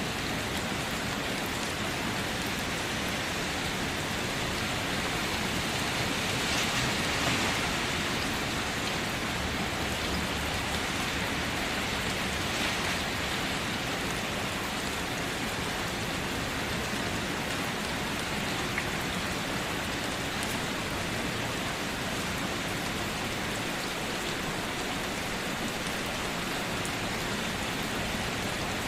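Steady, even rain hiss, with a slight swell in intensity about seven seconds in.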